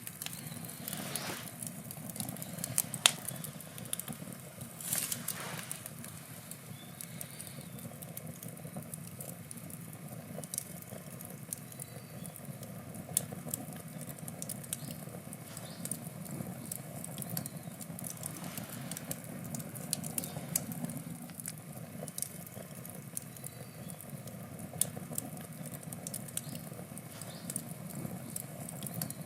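Wood fire burning: dense, irregular crackling with sharp pops, the loudest about 3 and 5 seconds in, over a steady low rush of the flames.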